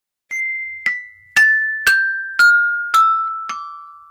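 Descending scale of struck, ringing bell-like notes from tuned percussion such as a glockenspiel, about two a second, each note a step lower than the last.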